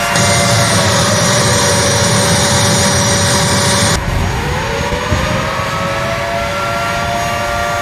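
Jet aircraft engines whining loudly over a steady rush of noise, the whine dipping in pitch and then rising again. The sound changes abruptly about halfway through, when a noisy high hiss drops away.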